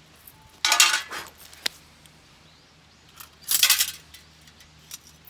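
Small metal items clattering and clinking together in two short bursts, one about a second in and one past the middle, with a single sharp click between them.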